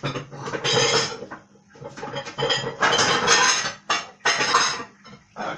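Dishes and kitchen utensils clattering and being handled, in several bursts with short pauses between them.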